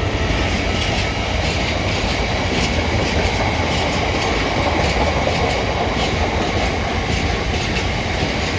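Freight train hauled by a Class 66 diesel passing through the station, its wagons' wheels clattering steadily over the rail joints.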